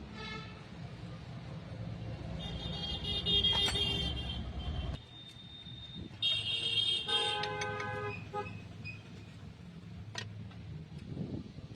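Vehicle horns honking several times, a few seconds apart, over a low rumble of traffic that fades out about halfway through.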